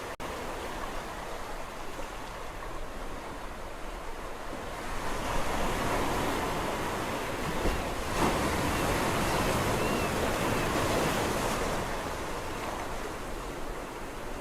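Sea waves washing on a shore: steady surf noise that swells about five seconds in, is loudest around eight seconds, and eases off again near the end. A split-second dropout comes right at the start.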